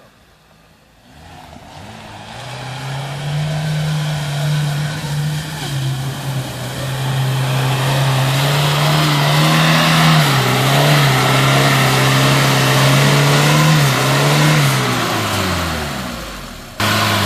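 Lada Niva engine working hard under load while driving through a ford. Its note holds fairly steady and grows louder, with a rushing noise building over it, then the pitch drops away shortly before an abrupt cut near the end.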